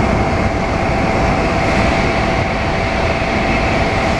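Shinkansen bullet train moving through the station: a steady loud rumble with a constant whine running over it.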